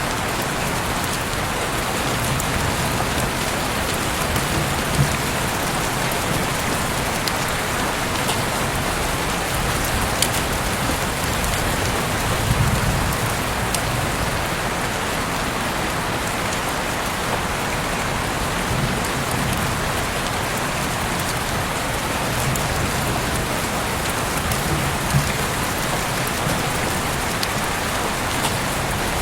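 Heavy rain falling steadily, a dense even hiss, with a few sharper drop hits now and then.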